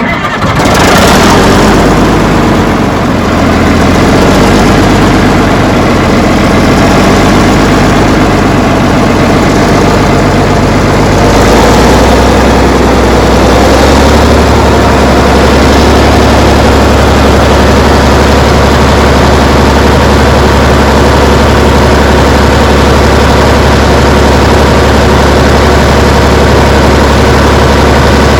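Bulldozer engine running, loud and close, coming in suddenly at the start and holding a steady low note. The note shifts and settles about twelve to fourteen seconds in.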